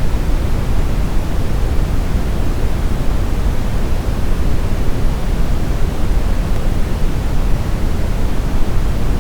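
Steady brown noise: a smooth, even rush of generated noise, heaviest in the low rumble and falling off toward the high end, with no change or events.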